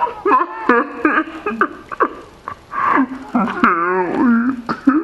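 An angry cat yowling: several drawn-out, wavering cries in a row.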